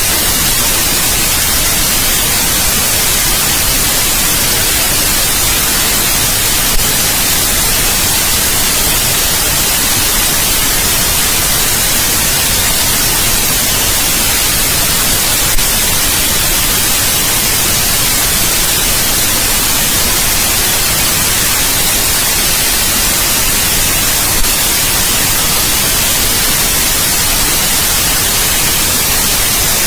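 Steady white noise: an even, unchanging hiss, brightest in the high end, with a faint click three times, about nine seconds apart.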